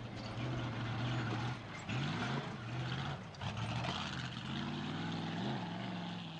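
Big Class 2 truck's engine running and revving, its pitch dipping and climbing again several times, under a steady noisy rush.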